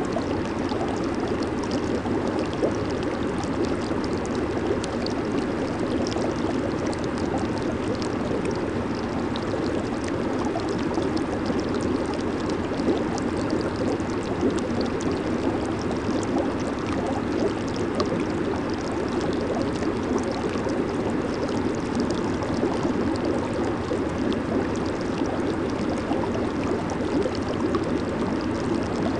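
Hot tub jets churning and bubbling the water in a steady, unbroken rush, with fine fizzing of popping bubbles on top.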